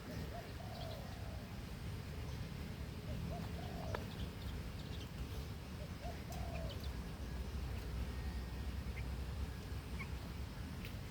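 White-breasted waterhens giving short, low calls, in pairs of brief notes a few times, with faint high chirps of small birds over a steady low rumble.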